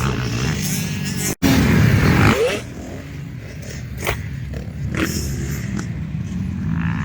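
Dirt bike engines running on a motocross track. The sound cuts out for an instant about a second and a half in, then comes back louder with a rising rev before settling back to a steady drone.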